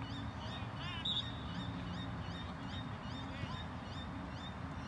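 A bird chirping in a rapid, even series of short high notes, about three a second, over a steady low rumble; one note about a second in stands out louder than the rest.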